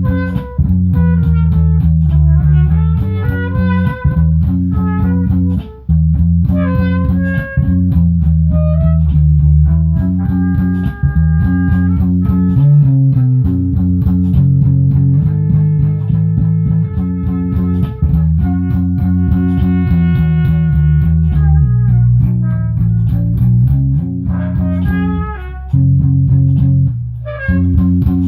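Instrumental band jam: guitar playing melodic lines and held chords over a steady bass guitar line.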